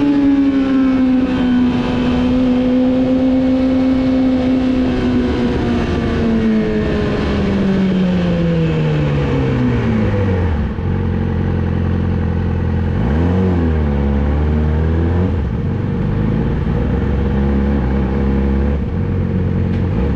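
Yamaha R6 inline-four sport bike with a Two Brothers full-system exhaust, running at steady revs. About seven seconds in, the engine note falls away as the bike slows, settling to a low idle by about ten seconds. Two short throttle blips follow a few seconds later.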